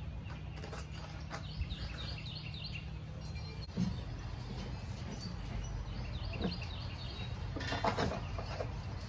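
A songbird chirping in two quick runs of short falling notes, about two seconds in and again around six seconds, over a steady low hum. A single thump comes about four seconds in and a few sharp clicks near the end.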